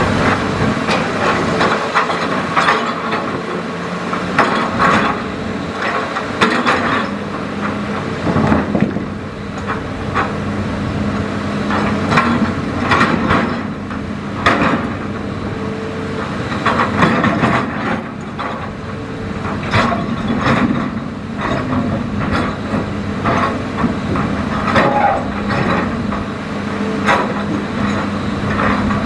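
Hitachi Zaxis hydraulic excavator's diesel engine running steadily, overlaid by frequent irregular knocks and scraping clatter from the bucket working the riverbed.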